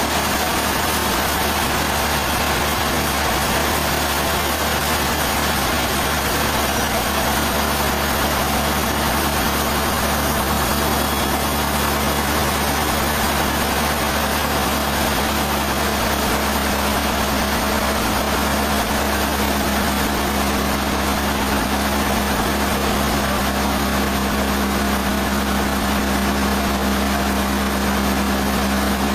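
Sawmill machinery running steadily: a constant low machine hum under an even wash of noise, with no breaks or impacts.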